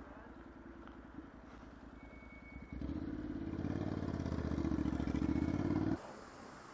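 Motorcycle engine ticking over, then pulling under throttle about three seconds in, its pulsing exhaust growing louder until it cuts off abruptly near the end.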